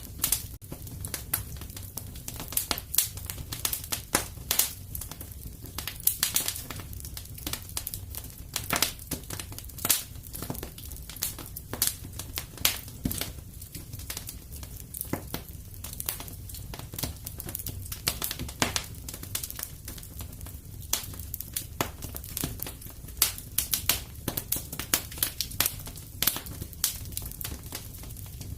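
Fire in a fireplace crackling: irregular sharp pops and snaps, sometimes several close together, over a steady low rush of the flames.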